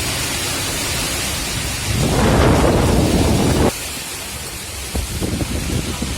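Rushing outdoor noise of wind and rain, with a low rumble that swells about two seconds in and cuts off suddenly just past halfway.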